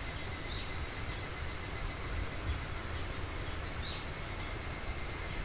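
Steady, high-pitched chorus of insects shrilling without a break, over a faint low rumble, with a few short faint chirps on top.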